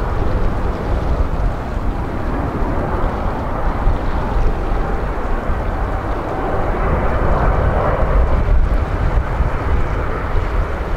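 Boeing 777-300 airliner's jet engines on landing approach: a steady rumbling roar that swells slightly around seven to eight seconds in, with wind buffeting the microphone.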